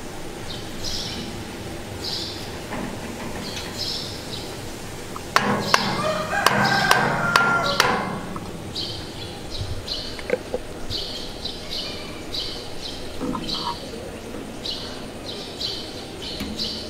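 A bird calling over and over in short high chirps. From about five seconds in, a few seconds of sharp knocks and clatter as a PVC pipe and fitting are tapped with a hammer.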